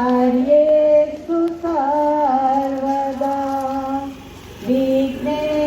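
A voice singing long held notes that slide slowly from one pitch to the next, with a short break about four seconds in.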